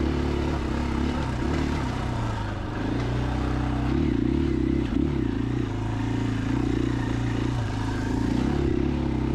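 2021 KTM 500 EXC-F's single-cylinder four-stroke engine running under way, its pitch rising and falling with the throttle, with a wobble and dip between about two and a half and five seconds in.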